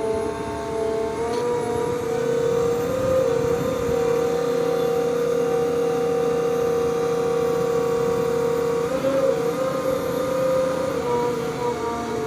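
Putzmeister concrete pump running steadily with a strong, even whine that steps slightly up in pitch about three seconds in and again about nine seconds in.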